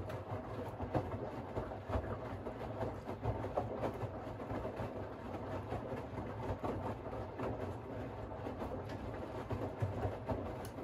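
Siemens iQ700 WG56B2090 washing machine turning its drum, the laundry tumbling with a steady rumble and irregular knocks.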